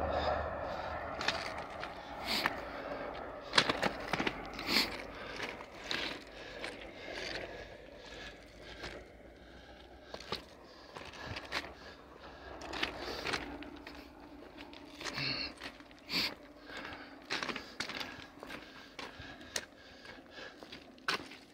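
Freight train gondola cars rolling past, with irregular clicks and clanks from the wheels and couplers over a faint rolling rumble.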